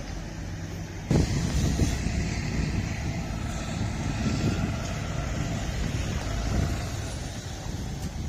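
Vehicle noise with wind rushing over the microphone: a steady low hum, then a sudden, louder, uneven rumble about a second in.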